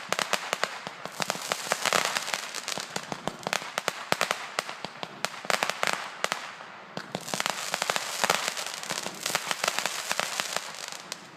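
Fireworks and firecrackers going off in dense, rapid strings of sharp pops and crackles, with a brief lull a little past halfway before the popping picks up again.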